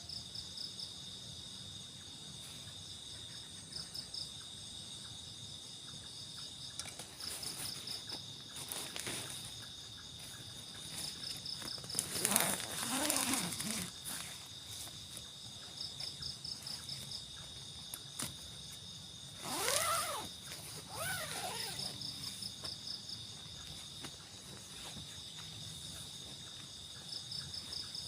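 Night insects chirping: a steady high buzz with pulsed chirp trains that come back every few seconds. About halfway in, and again about two thirds of the way in, a louder call sweeps up and down in pitch over it.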